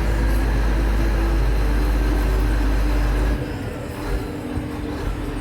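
Scania P124 truck's diesel engine running under way, a heavy low rumble with steady droning tones. The low rumble drops off sharply about three seconds in while the drone carries on.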